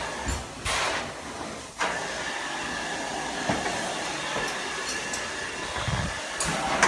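Steady rushing hiss of a carpet-cleaning extraction system's vacuum and wand drawing through a long hose, which jumps up sharply about two seconds in and then holds level.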